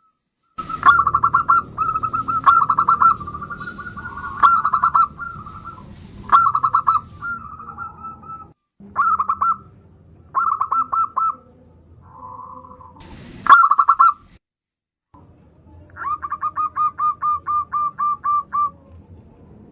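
Zebra dove (perkutut) cooing: repeated phrases of short rapid pulsed notes, ending in a longer, even run of about five pulses a second near the end.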